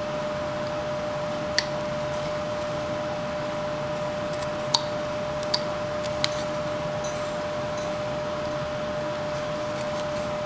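Carving knife cutting into a wooden carving: four sharp clicks and a few fainter ticks as the blade slices chips, over a steady hiss and hum.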